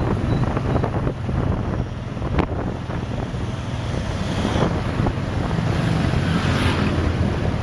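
Wind buffeting the microphone of a rider on a moving motorbike, over the steady hum of the motorbike's engine and street traffic.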